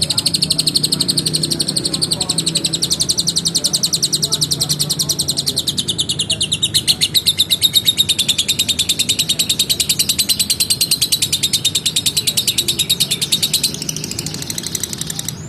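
Lovebird in full song doing a long ngekek: an unbroken, rapid chattering trill of high, fast-repeated notes. It drops a little in pitch about halfway through and stops shortly before the end.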